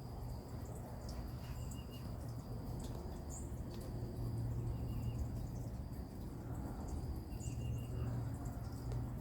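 Small birds chirping: short high calls and brief runs of quick repeated notes, with a thin high trill or buzz that breaks off and starts again. A steady low hum runs underneath.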